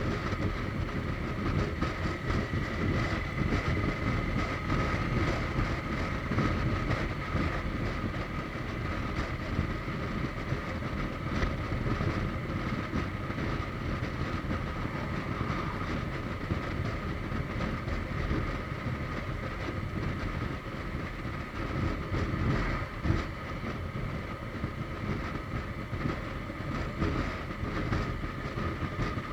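Suzuki GSX1250FA inline-four motorcycle cruising at a steady speed: wind rushing over the microphone with the engine and road noise running steadily, and a faint steady whine over it.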